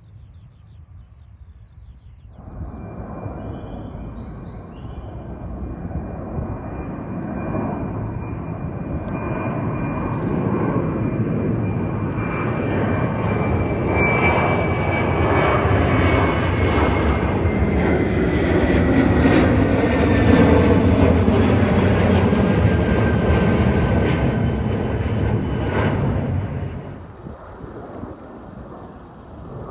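Jet airliner flying past low, its engine noise building over many seconds to a loud peak, with a high whine that slowly falls in pitch as it passes. The sound comes in suddenly about two seconds in and drops away sharply near the end.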